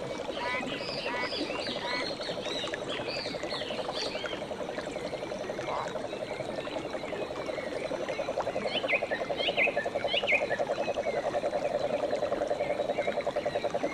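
Frogs trilling in a steady, rapidly pulsing chorus, growing louder near the end, with bird chirps over it in the first couple of seconds and again about two-thirds of the way through.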